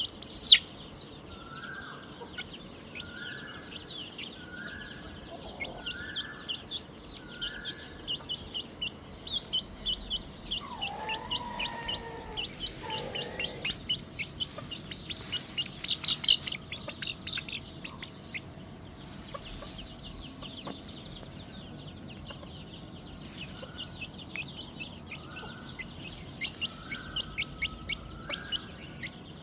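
Aseel chicks peeping rapidly and without pause in high, thin notes. A lower cluck repeats about once a second at the start and again near the end, as from a hen calling to them.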